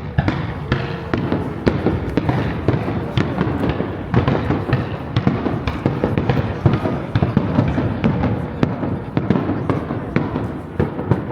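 Aerial fireworks bursting in rapid, dense succession: many sharp bangs and crackles over continuous low booming.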